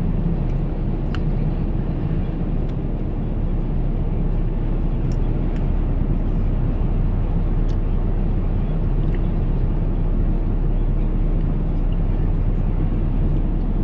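In-cab sound of a 2006 Ford F-150 pickup driving at low speed: steady engine and road noise with a few faint clicks.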